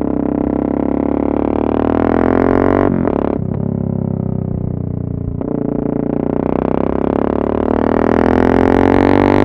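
Yamaha MT-03 660's single-cylinder engine, run through an exhaust with the dB-killer removed, accelerating. Its pitch climbs, breaks briefly about three seconds in and again about five and a half seconds in as it changes gear, then climbs again.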